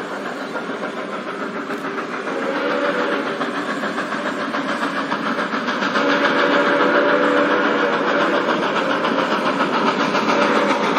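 A train running past: steady rail and running noise that grows louder from about two seconds in, with faint tones coming and going.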